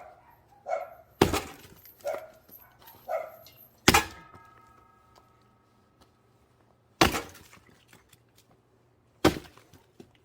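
Axe chopping into a round of dry pine firewood to split it, four hard strikes a few seconds apart, the second followed by a short ringing. A dog barks several times in the first few seconds.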